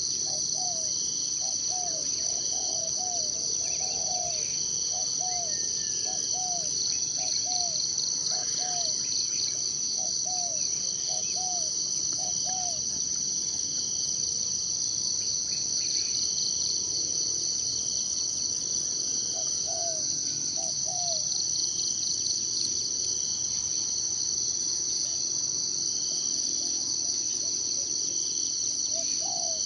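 Steady, high-pitched chorus of forest insects such as crickets or cicadas. Over it come runs of short, low, hooked calls, about two a second, from a bird or frog.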